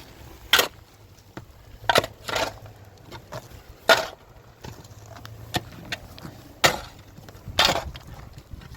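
A series of about seven heavy chopping blows, struck at uneven intervals of roughly a second.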